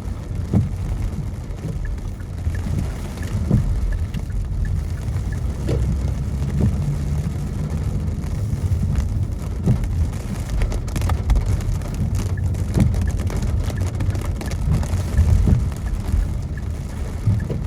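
Car driving in the rain, heard from inside the cabin: a steady low road rumble with scattered, irregular taps of raindrops on the windshield.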